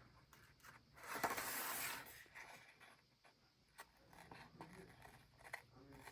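Paper and craft supplies handled on a desk: a brief scraping rustle about a second in, then scattered small clicks and taps.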